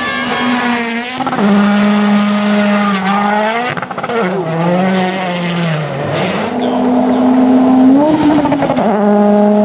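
Rally car engine at high revs under hard driving, its pitch held high, then falling as the driver lifts and climbing again with shifts between gears.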